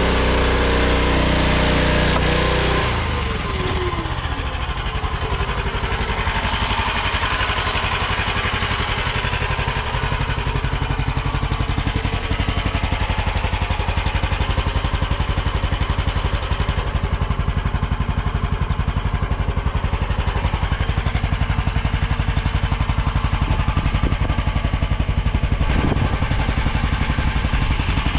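Mini skid steer's small engine running at high revs, then throttled down with a falling pitch about three seconds in, settling into a steady idle.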